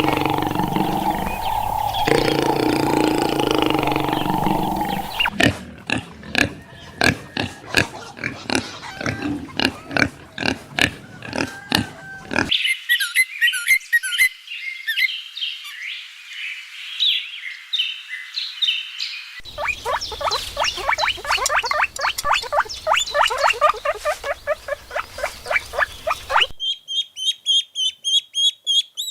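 A run of different animal calls cut one after another: a long low pitched call for the first five seconds, then fast repeated pulsed calls, high chirping, more rapid pulsed calls, and quick high chirps near the end.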